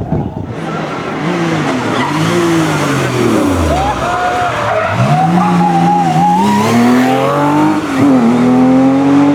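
Historic Porsche racing car engine revving: the pitch rises and falls a few times, then climbs steadily under acceleration with two shifts up through the gears near the end.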